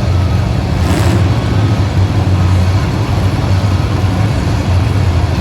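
Loud, steady engine rumble from motor vehicles, with a short hiss about a second in.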